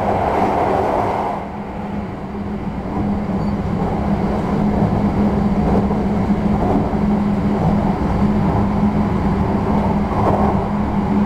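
Interior running sound of a JR West 321 series electric multiple unit under way: an even rumble of wheels on rail with a steady low hum throughout, heard from inside the carriage. The noise dips briefly about a second and a half in, then picks up again.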